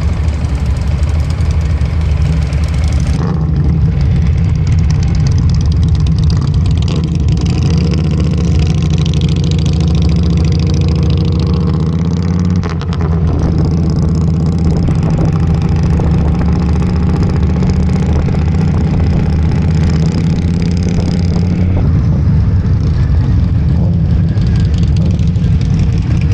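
Motorcycle engine running steadily under way, with wind rush over it.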